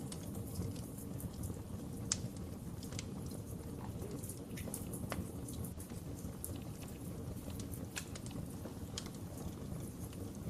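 Wood fire in a fireplace crackling: irregular sharp pops and snaps over a steady low rumble of flame, with one louder pop about two seconds in.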